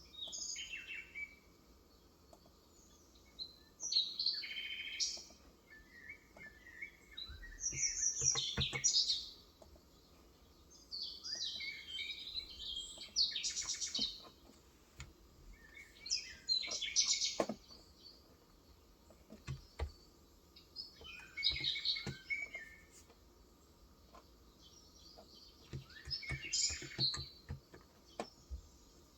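Birds chirping and twittering in short, high-pitched phrases of a second or two, about every two to three seconds.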